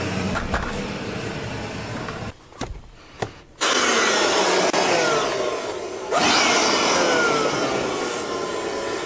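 Compressed-air blow gun blasting in long bursts, a loud hiss that cuts in suddenly twice, each time with a faint whistle falling in pitch.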